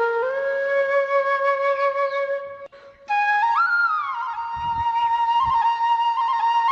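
Background flute music: long held notes joined by slides, breaking off for a moment about halfway through, then resuming with an upward slide.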